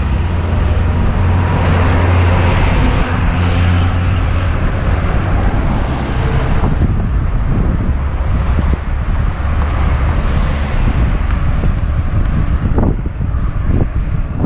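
Wind buffeting a helmet-mounted action camera's microphone while cycling downhill: a loud, steady low rumble under a rushing noise, easing a little about halfway through.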